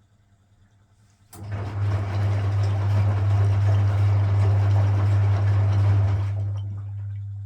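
A vintage Frigidaire Super Deluxe Automatic 50 front-loading washing machine switches on a water stage of its rinse. About a second in, a loud mains hum starts suddenly along with rushing water. The water noise stops after about five seconds, and the hum fades away slowly.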